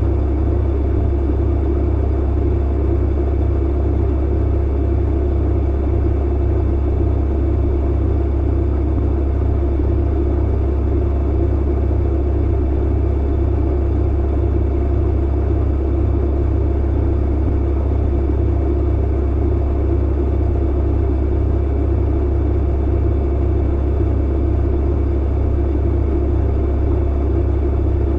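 Clothes dryer running: a steady low rumble and hum that does not change, with no tumbling knocks.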